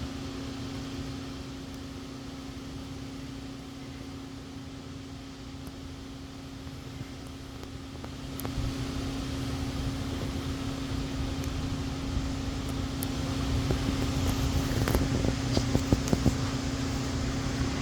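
A steady mechanical hum on one constant pitch, like a running fan. From about halfway a low rustle grows louder, with light clicks and handling knocks near the end.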